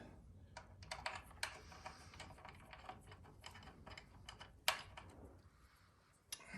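Quiet, irregular clicks and taps of hand tools and small metal parts being handled while fitting motorcycle rear sets, with one sharper click about two-thirds of the way through.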